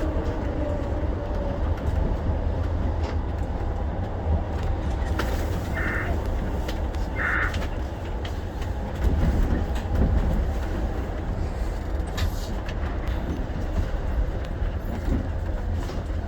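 Shonan Monorail 5000-series suspended monorail car running between stations: a steady low rumble from its rubber-tyred running gear, heard from inside the car. Two short higher-pitched sounds about a second apart come near the middle, with a few faint clicks.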